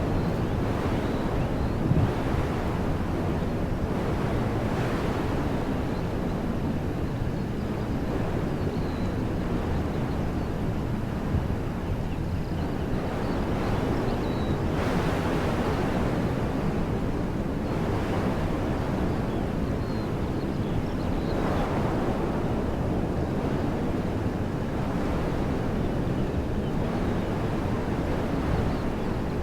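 Wind blowing through trees: a steady rush with the deepest part at the low end, swelling in gusts a few times around the middle.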